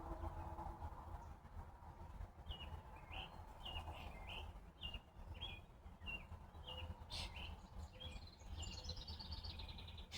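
A bird calling: a run of short, evenly repeated chirps, then a quick falling series of notes near the end, over a steady low rumble.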